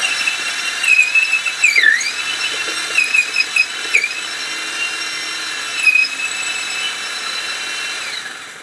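High-pitched power tool motor whining as it cuts into wood, its pitch dipping briefly twice as the cutter bites, then spinning down and stopping just before the end.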